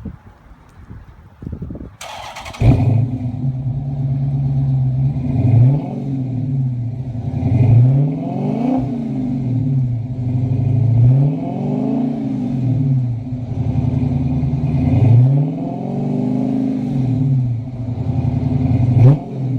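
2013 Chrysler 300 SRT8's 6.4-litre HEMI V8 cranking on the starter and catching about two seconds in, then idling with about five quick revs that rise and fall. It runs through an exhaust with Flowmaster 44 mufflers in place of the resonators and the stock suitcase mufflers removed by a Blastin Bob's muffler delete.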